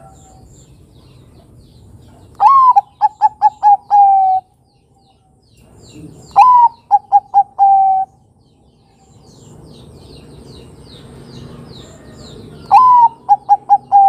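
Zebra dove (Bangkok-strain perkutut) cooing its song three times, each phrase a first note that drops in pitch, a quick run of about five short staccato coos, and a longer held final note; the third phrase is still going at the end. Small birds chirp faintly in the background.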